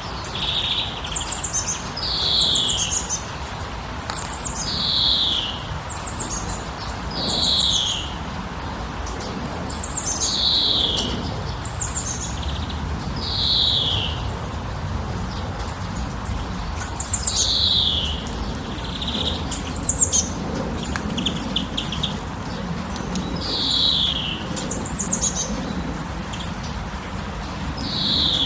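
Songbirds singing: one repeats a short falling whistled phrase about every two to three seconds, with higher, quick trilling notes from another bird in between, over a faint steady background hiss.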